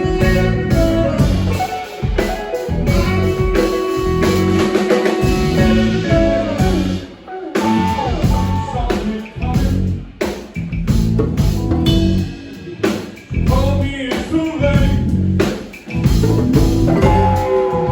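Live band playing blues-rock: guitar lines over bass and a drum kit, with a few brief breaks in the playing.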